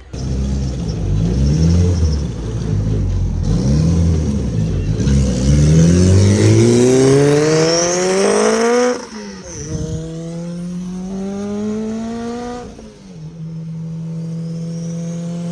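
K-swapped Honda Civic's K20 four-cylinder engine and exhaust under hard acceleration, the pitch climbing through a gear. It shifts up about nine seconds in, climbs again, shifts once more a few seconds later, then settles to a steady cruise.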